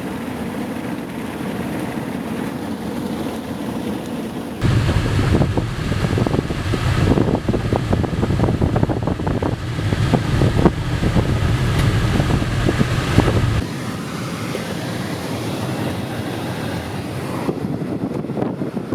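Wind noise and road noise from a moving car with its window down. About four and a half seconds in, heavy wind buffeting on the microphone starts suddenly with a deep rumble and irregular thumps, then drops back just as suddenly about nine seconds later.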